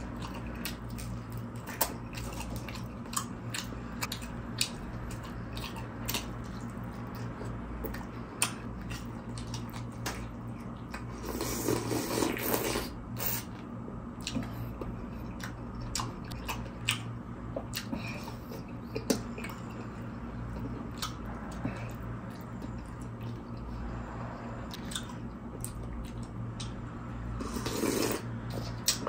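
Close-miked chewing of a crispy fried spring roll, with many sharp crunches and wet mouth clicks throughout. Near the end there is a longer slurp as liquid is sipped from a small bowl.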